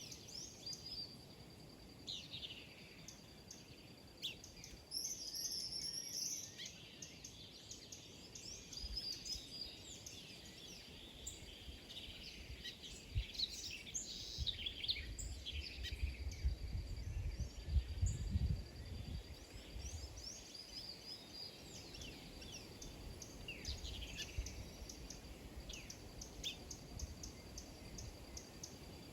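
Many small birds chirping and calling over one another in quick, overlapping notes, over a thin steady high tone. A low rumble rises for a few seconds around the middle.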